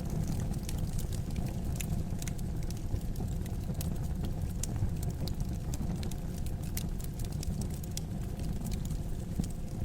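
Wood fire in a fireplace crackling: many small, irregular sharp pops and snaps over a steady low rumble of the flames.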